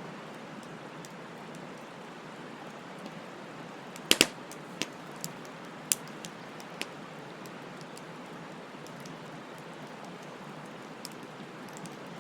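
Wood bonfire burning with a steady hiss and scattered crackles, with a sharp double pop about four seconds in and a few smaller pops over the next couple of seconds.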